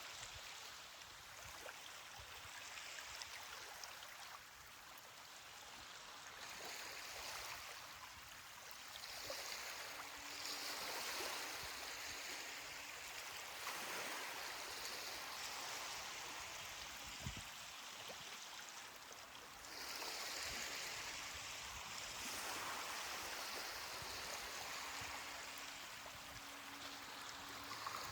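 Small ocean waves washing up on a beach: a soft rushing hiss that swells and eases every few seconds.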